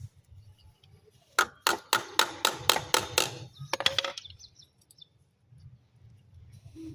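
A quick run of about eight sharp knocks or taps, roughly four a second, then after a short pause two more.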